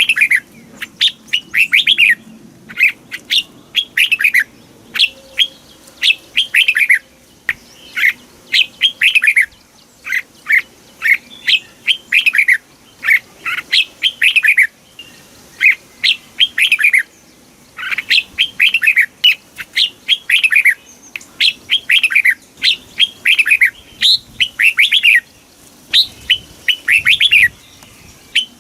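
Red-whiskered bulbul singing: phrase after phrase of quick, clear whistled notes that each slide downward, in bursts of a few notes with short pauses between them.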